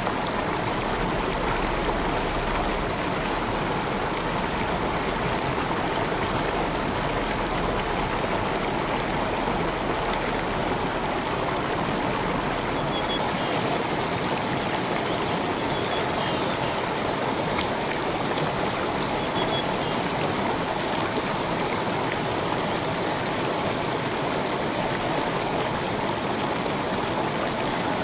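Gentle river stream flowing: a steady, even rush of water.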